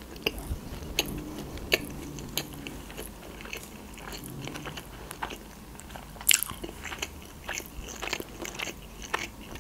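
A person chewing a mouthful of sushi roll: irregular, sharp mouth clicks and chewing sounds, with one louder click about six seconds in.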